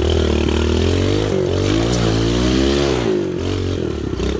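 Pit bike engine revving under load while climbing a hill, its pitch rising and falling several times as the throttle is worked.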